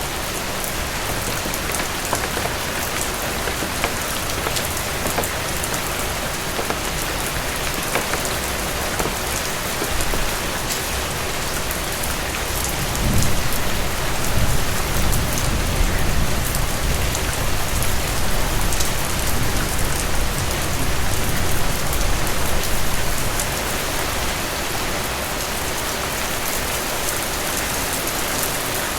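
Steady heavy rain on a cabin roof, a dense hiss with many small drop taps. About halfway through, a low rumble of thunder rolls in for roughly ten seconds, then fades back under the rain.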